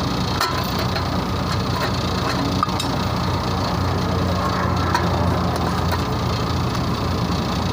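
Steady low machinery hum, with a few light clicks and knocks over it.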